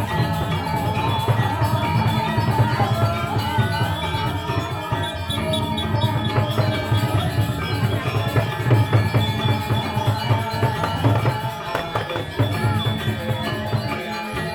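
Balinese gamelan music: metallophones ringing over steady drumming.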